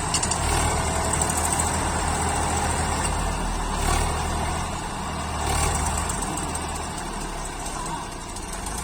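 Tractor diesel engine running, louder through the first six seconds or so, then easing off.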